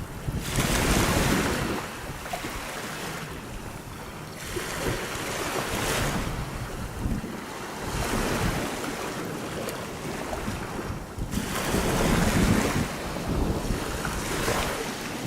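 Small sea waves breaking and washing up over fine pebbles, swelling and easing every few seconds; the biggest surges come about a second in and near twelve seconds. Wind rumbles on the microphone throughout.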